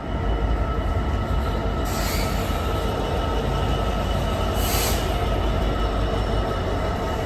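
A train running, with a steady low rumble and a steady high whine or squeal. Two short hisses come about two and five seconds in.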